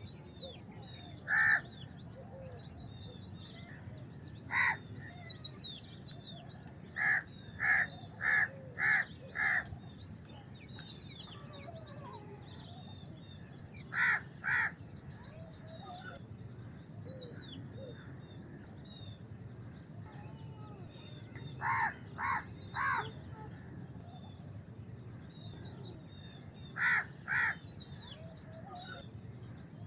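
House crows cawing: harsh short caws, some single and some in quick runs of two to five, with the longest run of five about seven seconds in. Smaller birds chirp and twitter high and faint throughout, over a steady low background rumble.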